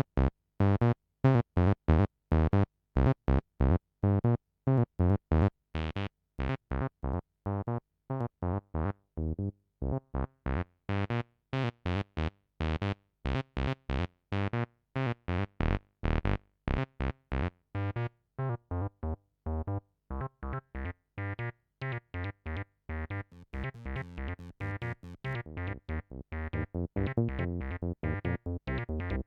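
Behringer TD-3-series acid bass synthesizers playing sequenced staccato bass lines, the filter opening up brighter in the middle and closing down again, with the notes growing busier near the end.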